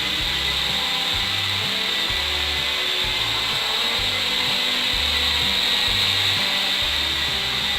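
Small electric motor spinning a propeller at a steady speed, a constant high whine. Background music with a low bass line plays under it.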